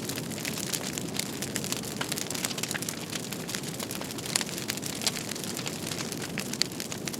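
Fireplace crackling: a steady hiss of burning with frequent sharp, irregular pops and snaps.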